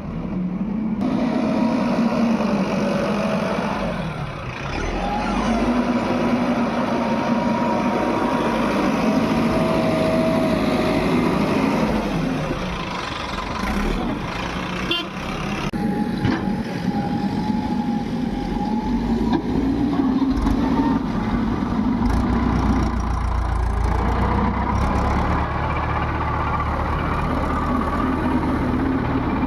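JCB backhoe loader's diesel engine revving up and easing off in repeated cycles under hydraulic load, with a whine from the hydraulics, while digging and loading soil. A deeper engine rumble joins near the end.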